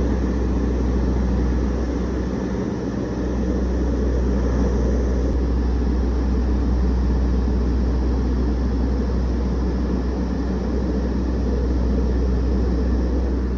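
Twin-engine Beech 18's two radial engines droning steadily in cruise, heard in the cockpit through the intercom.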